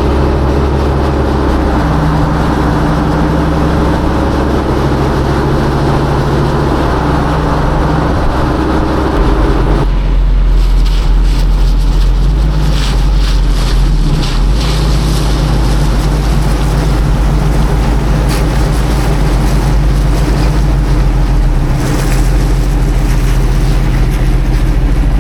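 1955 Chevrolet First Series 3100 pickup's engine running steadily as the truck cruises. About ten seconds in the engine note changes to a deeper low rumble. Wind noise on the microphone is also heard.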